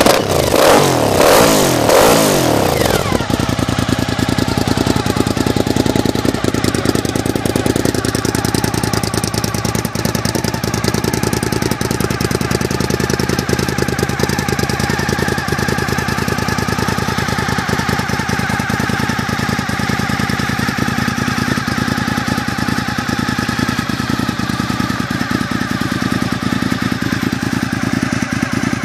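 Suzuki SV1000's V-twin engine through a short exhaust: revved up and down in the first three seconds, then settling into a steady idle.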